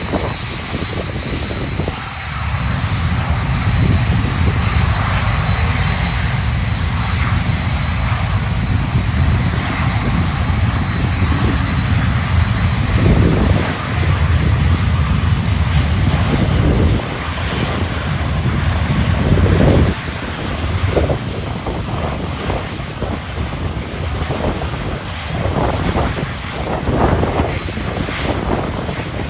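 BAE Hawk T1 jet engines running on the ground, a steady high whine, with gusty wind rumbling on the microphone.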